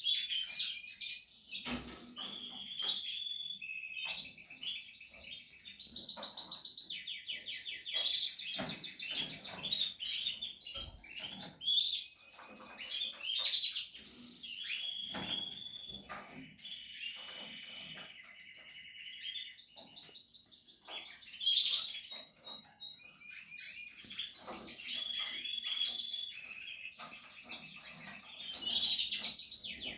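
Portuguese harlequin canaries singing and chirping, with fast rattling trills and varied high notes following one another without pause. A few brief knocks sound in among the song, the loudest about halfway through and again about two-thirds of the way in.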